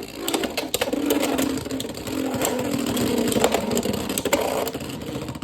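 Beyblade X tops spinning in a plastic stadium: a steady whir broken by many sharp clacks as the tops strike each other and the stadium walls.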